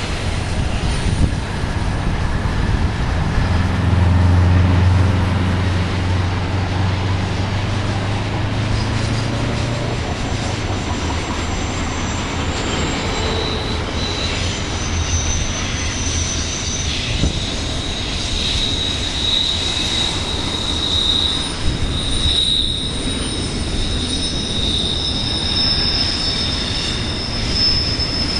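BNSF freight train cars rolling past with a steady rumble. Their wheels squeal in high, held tones through the second half, over a low drone in the first third.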